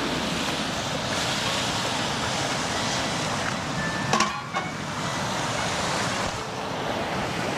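Steady rush of flowing river water, with one short knock about four seconds in.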